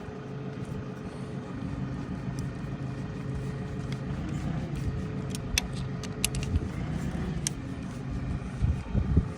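A steady low mechanical hum, like a motor running, with a few sharp, light metallic clicks scattered through it.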